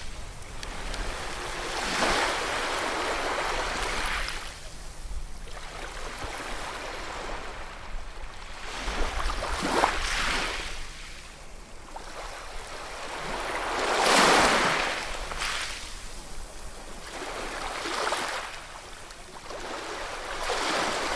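Ocean waves breaking and washing in, a rushing sound that swells and falls away every few seconds, with the loudest wave about two-thirds of the way through over a low rumble.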